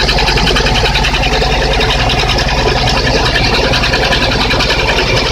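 VAZ-21126 1.6-litre 16-valve four-cylinder engine idling cold, with a fast, even metallic knock over the running. The knock is piston slap at top dead centre in the first cylinder, which the owner puts down to sagged STK pistons.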